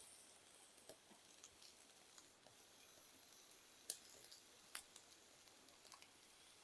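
Faint, scattered crackles and ticks from a small wood fire in a camp stove with food cooking over it, with two sharper pops about four and five seconds in.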